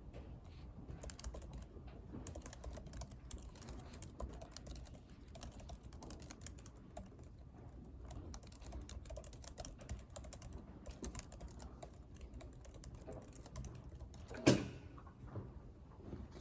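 Typing on a computer keyboard, quick runs of key clicks that go on almost without a break. One loud single knock or thump comes near the end.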